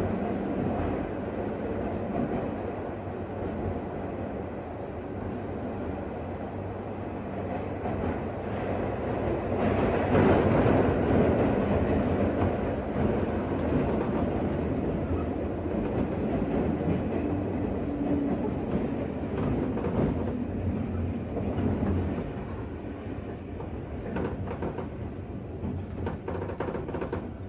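Interior running sound of a JR West 201 series electric train, heard from inside motor car MoHa 201-266: wheels on rail with a steady low hum, louder about ten seconds in and easing off over the last few seconds.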